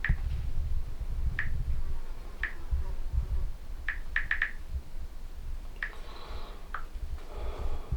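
Phone touchscreen keyboard clicking as a question is typed in: about nine short, sharp taps at an uneven pace, with a quick run of four about four seconds in. Low rumble underneath.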